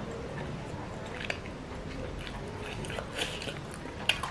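Close-miked chewing: wet mouth sounds and small crackling clicks as food is chewed, with one sharp click about four seconds in.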